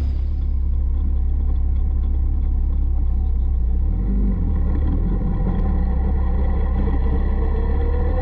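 Caterham 620R's supercharged 2.0-litre four-cylinder engine running steadily at low revs as the car moves off slowly, heard from the open cockpit. The note shifts a little about four seconds in, and the revs rise slightly near the end.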